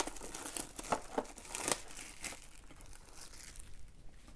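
Plastic shrink-wrap crinkling and tearing as a sealed trading-card box is unwrapped, a dense run of crackles that thins out after about three and a half seconds.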